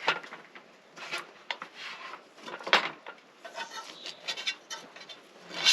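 Camp dishes and utensils being handled and rummaged through: a series of knocks, scrapes and light clinks about a second apart.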